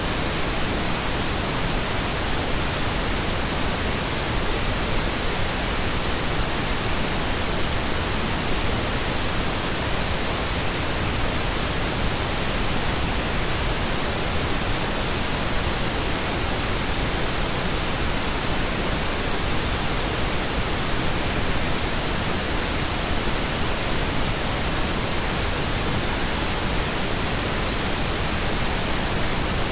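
Steady pink noise: an even, unchanging hiss spread across all pitches, with no events or rhythm.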